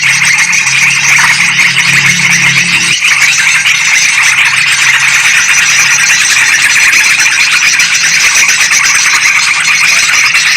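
Yellow-vented bulbuls (trucukan) and sooty-headed bulbuls (kutilang) chattering continuously and noisily, a dense bird-lure call track. A low hum underneath stops about three seconds in.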